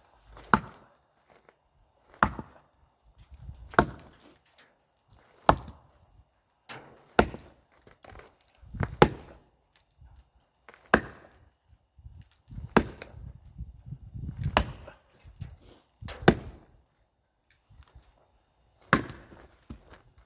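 Axe splitting firewood: a sharp chop and split about every two seconds, eleven strikes in all, with a longer pause before the last one.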